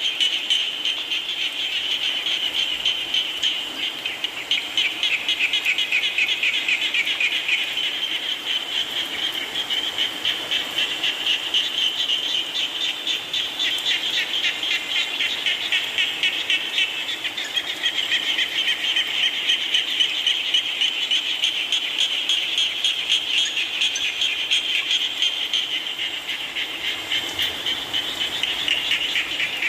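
A dense chorus of many frogs calling continuously, their rapid pulsed calls overlapping into a steady, high-pitched trill.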